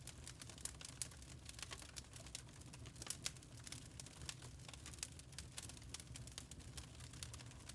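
Burning charcoal crackling: irregular sharp pops and ticks, some louder than others, over a low steady rumble.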